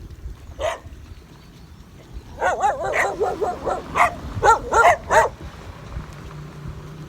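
Two dogs barking at an approaching stranger: a single bark about half a second in, then a quick run of loud, overlapping barks that stops about five seconds in. The barking is a guard dog's territorial warning.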